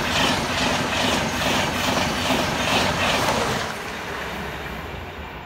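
InterCity 125 High Speed Train running through the station at speed: a loud rush of wheels on rail with a rapid regular clatter, about two to three beats a second. It fades away after about three and a half seconds as the train recedes.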